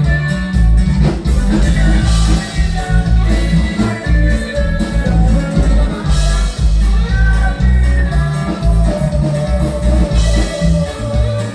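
Norteño band music with a pulsing bass line under melody, and singing.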